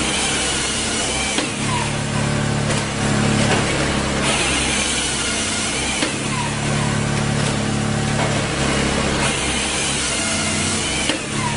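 Firewood splitting machine running, its engine-driven noise changing in a repeating work cycle about every four to five seconds as logs are split.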